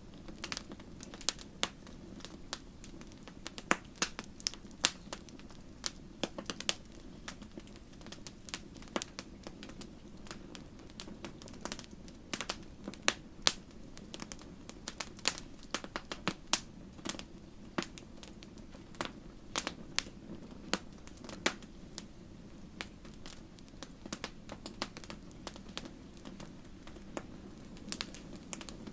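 Wood fire crackling: frequent sharp, irregular pops and snaps, several a second, over a steady low rumble of burning.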